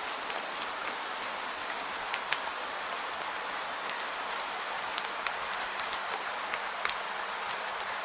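Steady rain falling as an even hiss, with many individual drops ticking sharply and irregularly throughout.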